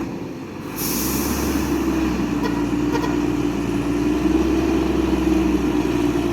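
A heavy vehicle's engine running steadily with a low rumble and a held drone, getting louder about a second in and dropping away near the end.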